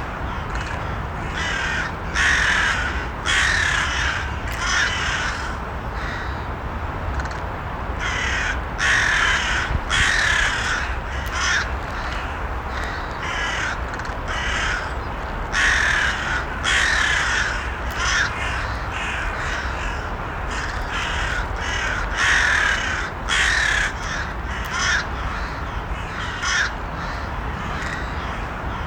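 Crows cawing over and over: harsh calls every second or so, with short pauses, over a steady low background noise.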